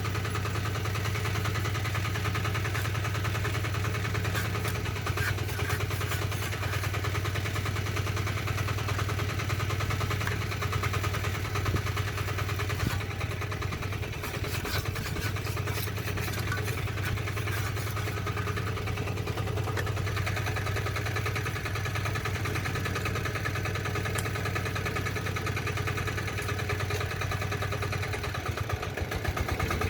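Diesel walk-behind tractor engine running at a steady speed with a rapid, even chug.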